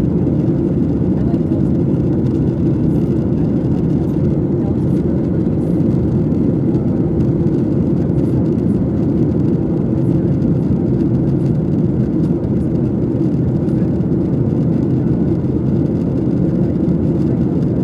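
Steady low roar of a jet airliner, even and unbroken.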